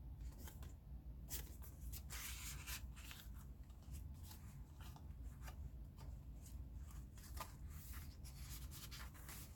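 Paper pages and cards of a handmade junk journal rustling and rubbing as they are handled and turned, with many short soft crackles scattered throughout.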